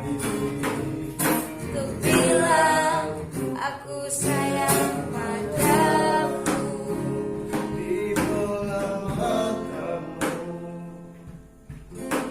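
Singing of an Indonesian pop ballad with guitar accompaniment. The music briefly drops in level near the end.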